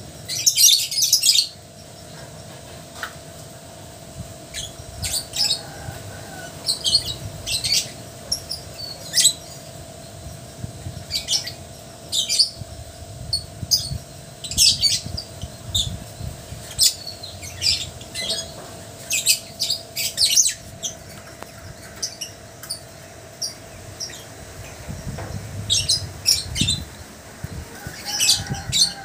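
Lovebirds chirping and squawking in short, shrill bursts scattered throughout, the loudest cluster about a second in.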